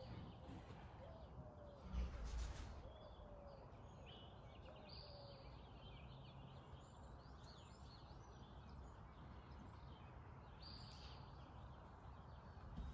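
Faint outdoor ambience with wild birds calling: a high call repeated about every five seconds, with a few fainter chirps. A single dull thump about two seconds in.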